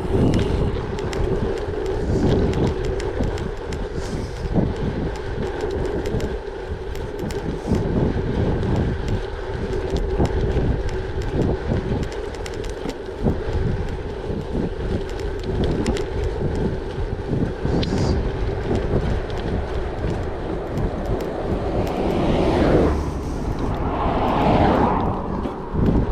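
Gravel bike being ridden: a steady hum from the rolling bike and wind buffeting the microphone, with frequent small knocks and rattles from bumps. A louder swell of noise rises and falls near the end.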